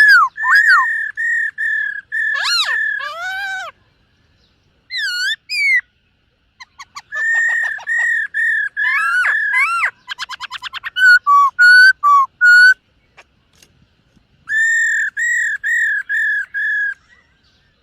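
Black-throated laughingthrush singing: phrases of loud, clear whistled notes repeated in series, with swooping up-and-down glides and, about ten seconds in, a fast run of rapid notes, broken by short pauses.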